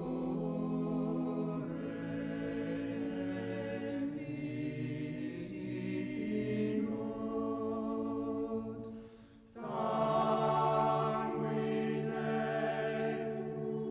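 Choir singing slow, sustained chords. About nine seconds in, the singing breaks off briefly, then comes back in fuller and louder.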